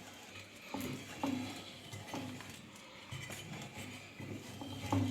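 Light metallic clinks and taps of hand tools working on a washing machine's gearbox: a few scattered knocks, with a sharper one near the end.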